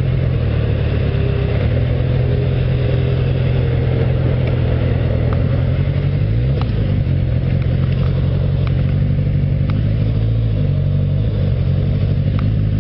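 Motorcycle engine running under way with road and wind noise. The engine note dips and rises again about six and a half seconds in, and drops lower after about ten seconds.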